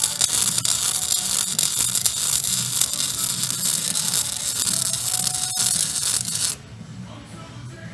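Wire-feed welder arc crackling steadily as a weld is laid on a steel excavator bucket, with a low hum under it; the arc cuts off after about six and a half seconds.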